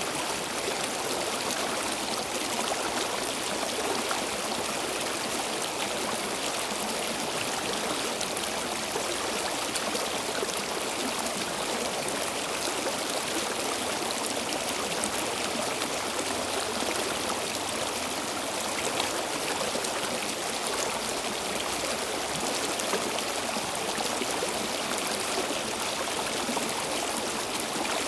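Flowing stream water running steadily over rocks, a continuous rushing with fine splashing and trickling.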